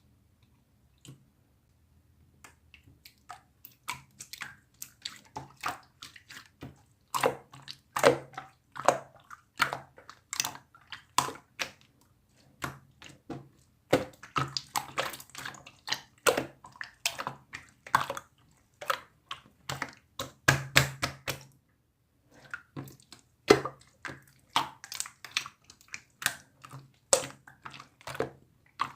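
Clear slime being squished and pressed by hand, making wet clicks and pops several times a second, with two short pauses.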